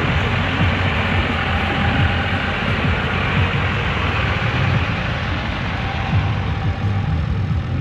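A truck engine running steadily, with a heavy low rumble.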